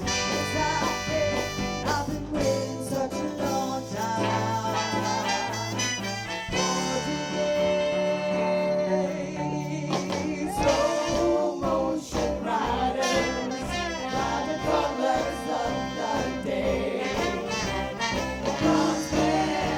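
Live horn band playing an instrumental passage: trumpet, trombone and saxophone lines over bass, keyboard and drums keeping a steady beat.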